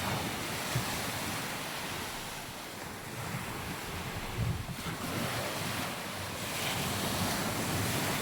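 Surf washing onto a sandy beach, swelling and easing, with wind rumbling on the microphone.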